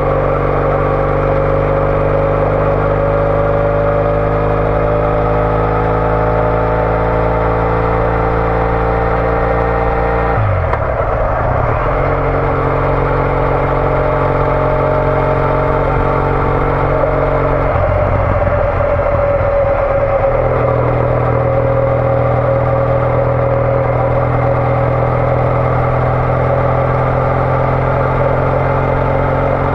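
Triumph Bonneville T214's parallel-twin engine through a TOGA aftermarket exhaust, running steadily under way, its note rising slowly at first. The note breaks off briefly twice, about ten seconds in and again about eight seconds later, before settling back to a steady drone.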